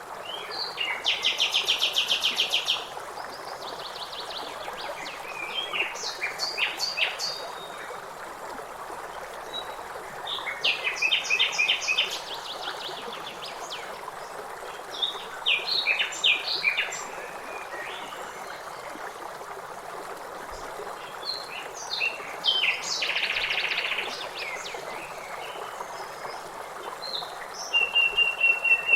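Songbirds singing phrases of rapid trills and short chirps, repeated every few seconds, over a steady rush of river water.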